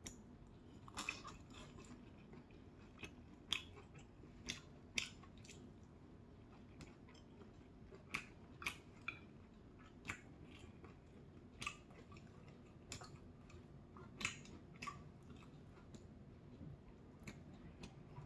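A person chewing soft, broth-soaked jeon close to the microphone: irregular wet mouth smacks and clicks, roughly one every half second to second.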